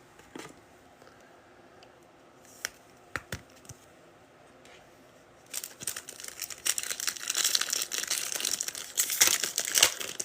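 A few light clicks of cards being handled, then from about halfway in, a foil trading-card pack crinkling and tearing as it is ripped open.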